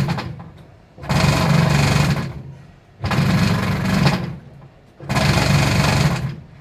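IFB washing machine running its wash cycle. The motor and drum start up in bursts about every two seconds, each a loud hum with a rough rattling noise that lasts just over a second and then fades.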